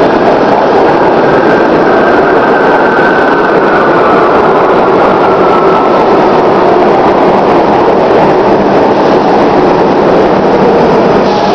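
Subway train running on an outdoor track, a loud steady rumble and rush of wheels on rail, with a faint whine that drops slowly in pitch over the first half.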